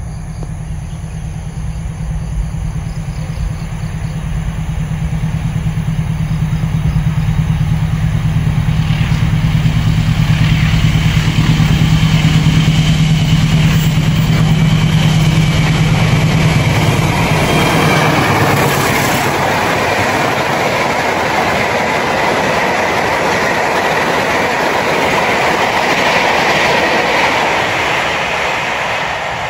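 Diesel locomotive hauling a passenger train passes close by. Its low engine drone builds as it approaches and is loudest about halfway through. The drone then gives way to the rumble and clatter of the coaches' wheels on the rails as the carriages run past.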